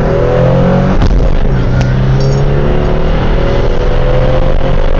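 1996 Pontiac Firebird's 3.8-litre 3800 Series II V6 accelerating hard from inside the cabin, its note climbing steadily. About a second in, the note breaks off briefly for a shift of the manual gearbox, then climbs again in the next gear.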